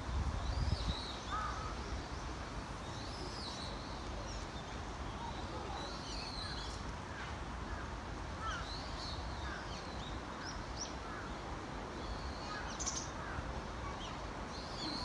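Birds calling, many short chirps scattered throughout, over a steady low background rumble.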